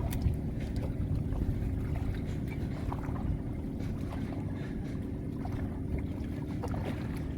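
A small boat's motor running steadily with a low rumble, a few light clicks over it.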